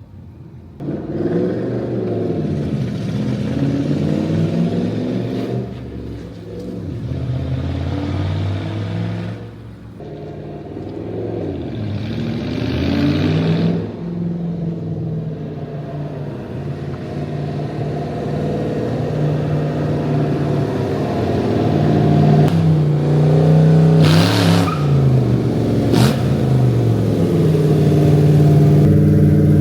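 A car engine revving up and down again and again, its pitch climbing and falling with each rev, holding a steady, louder note near the end. A single sharp crack sounds about 26 seconds in.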